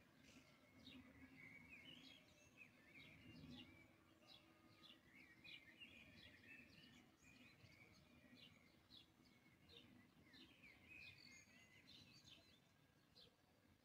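Faint bird chirping: many short, high chirps one after another, over a low background hum.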